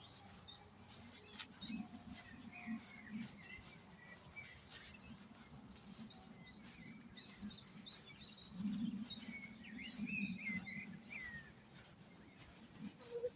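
Several songbirds chirping and singing, with many short high chirps and quick whistled notes, joined by soft, irregular low thuds.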